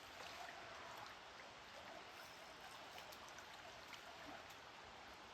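Faint, steady rush of creek water flowing, with a few faint ticks.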